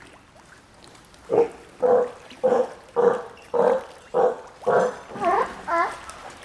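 An animal giving a series of about nine short calls, evenly spaced about two a second, starting just over a second in; the last few bend in pitch and are a little quieter.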